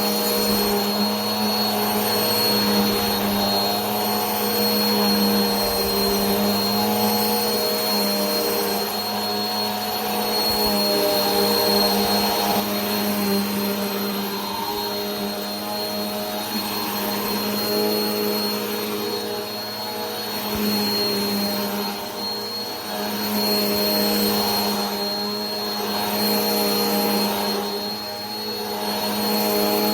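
Vacuum cleaner running continuously: a steady motor whine with a high rushing hiss, its level swelling and easing slightly every few seconds.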